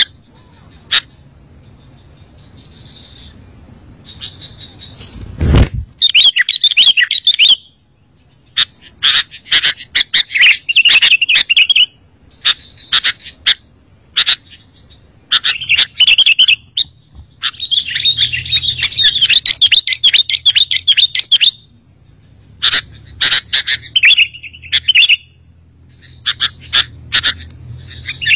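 Sooty-headed bulbul (kutilang) chirping in quick, high bursts of a few seconds each, with short pauses between. A brief low thump about five and a half seconds in.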